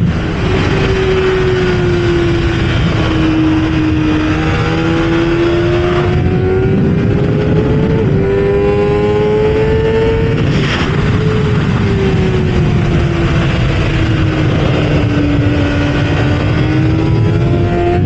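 Kawasaki ZX-6R inline-four engine at speed, heard onboard, its note rising and falling repeatedly as the throttle opens and closes, with a short sharp crack about ten and a half seconds in. Heavy wind noise rushes underneath throughout.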